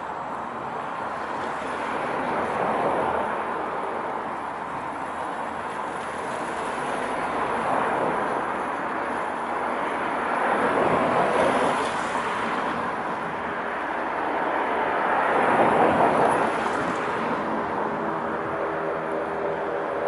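Greater Anglia Class 755 bi-mode train pulling away on diesel power: a steady rush of engine and wheel-on-rail noise that swells and eases several times.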